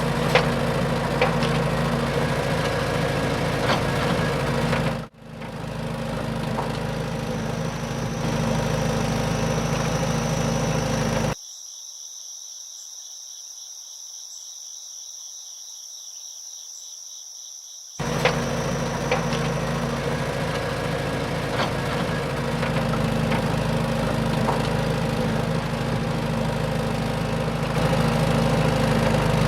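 A small motor runs steadily with an even, low hum, cut off briefly twice. Through the middle, while the hum is gone, only a high, steady insect-like trill remains.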